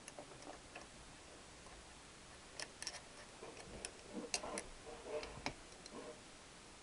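Faint scattered clicks and light scrapes of a hand tool easing a soft oil seal into the gearbox case, bunched around the middle of the stretch.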